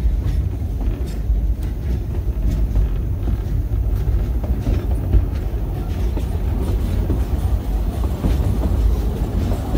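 Steam train's passenger car rolling along the track, heard from on board: a steady low rumble with occasional clicks.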